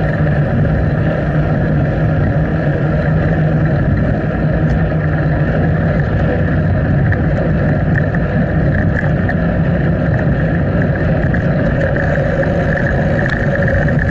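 Steady, loud wind and riding noise on a small action camera's microphone carried on a moving bicycle, with a constant low hum running under it.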